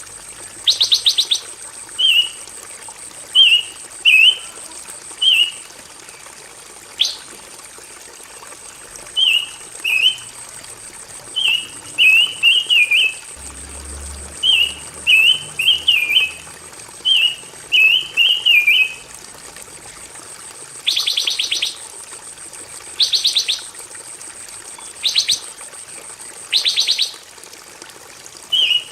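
Pancawarna songbird singing: half-second bursts of rapid, buzzy trills alternate with runs of short, warbled chirping notes. A faint, steady high-pitched whine runs beneath most of it.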